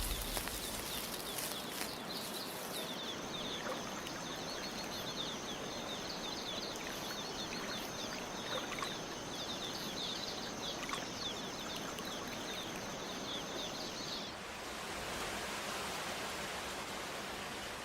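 Rainforest ambience: an even hiss with a steady high-pitched drone and rapid repeated chirps over it. The drone and chirps stop about 14 seconds in, leaving only the hiss.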